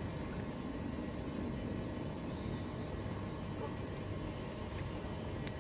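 Small birds chirping, a run of short high calls, over a steady low outdoor rumble.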